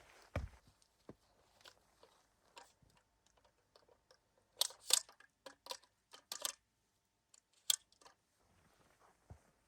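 Snow crunching in a run of short, irregular crunches, with a cluster of sharper, louder ones about halfway through and one more a little later.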